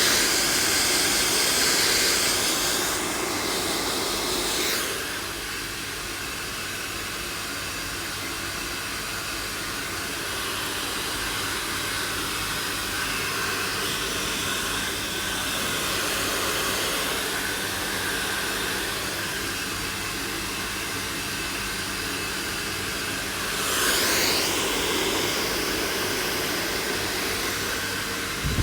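Handheld hair dryer running continuously: a rush of blown air over a steady motor hum. The air noise is louder for the first few seconds, drops about five seconds in, and swells again briefly near the end.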